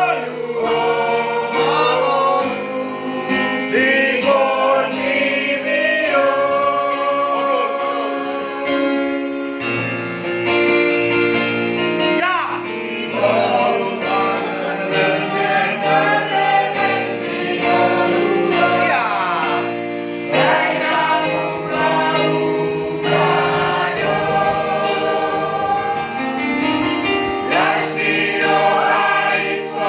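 Church choir rehearsing, singing a gospel hymn together in several voice parts.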